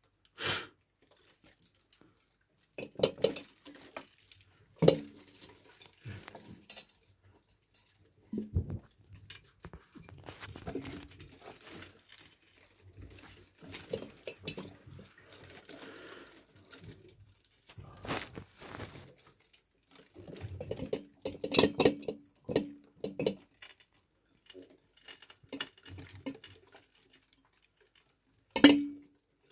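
Irregular scuffling and pattering with scattered light clinks and knocks on hard objects, as a cat chases mice. There are a few sharp, louder knocks, the loudest near the end.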